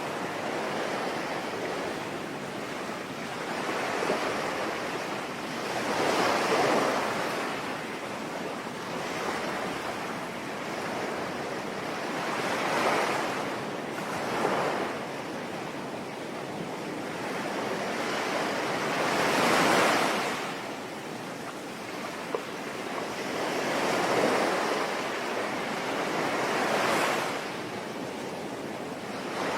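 Sea waves washing in and breaking, swelling every few seconds over a steady hiss of rain.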